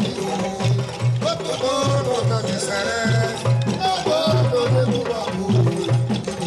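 Bumba-meu-boi music from Maranhão: a voice singing a melody over a steady low drum beat, about two strokes a second, with shaken maracas rattling throughout.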